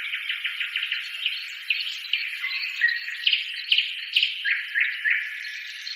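Birds chirping and calling in a dense chorus of short chirps and quick falling notes.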